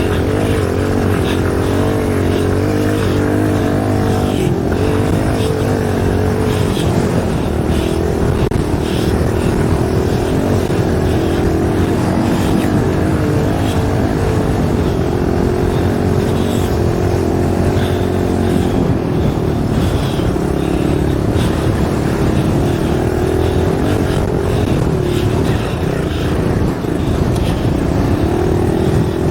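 A 110cc dirt bike's small engine running as it is ridden, its pitch wavering up and down with the throttle, with wind noise on the microphone.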